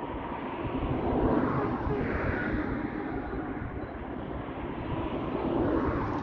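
Passing train: a steady rumble and rush of wheels on rails, swelling about a second in and again near the end.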